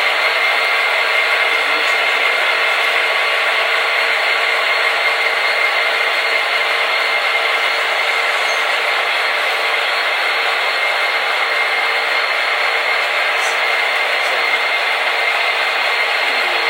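Sound decoders of several HO scale DCC diesel locomotives running together in one consist, their engine sounds blended through tiny onboard speakers into a steady, even drone with no deep bass.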